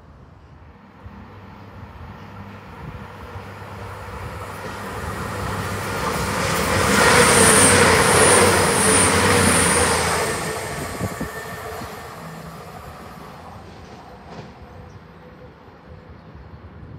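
CrossCountry Voyager diesel multiple unit passing at speed. Its sound builds over several seconds to a peak about eight seconds in, then fades away, with a few short high-pitched tones at the loudest moment.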